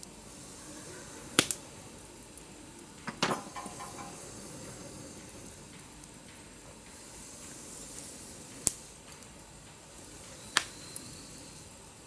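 Wood campfire burning with a steady hiss and four sharp pops; the one about three seconds in comes as a quick cluster with a short ringing tail.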